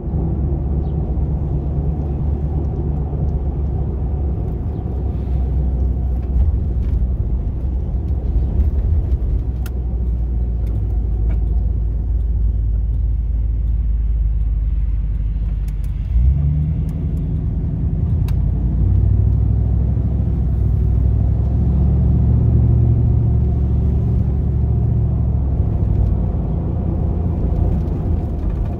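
GMC Vandura / Chevrolet G20 van's V8 engine running while driving, a low steady drone. About halfway through the engine note steps up suddenly, then rises gradually over several seconds.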